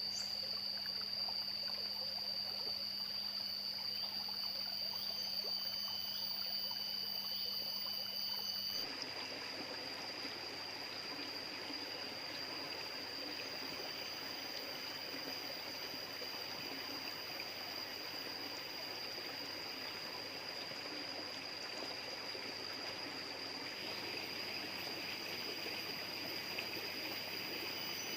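Jungle stream running, with a steady high-pitched insect drone over it. The water sound changes abruptly about nine seconds in.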